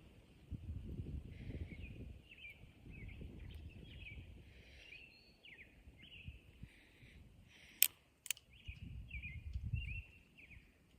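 Small birds chirping again and again, with two sharp clicks half a second apart about eight seconds in from the Pietta 1851 Navy cap-and-ball revolver being worked after a percussion cap has fallen off.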